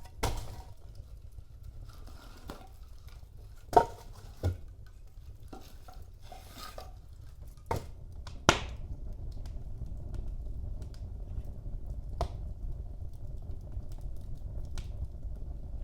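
Wood fire burning in a fireplace: a low steady rumble of flames with scattered sharp crackles and pops, the loudest about four seconds in. The rumble grows a little stronger after about eight seconds.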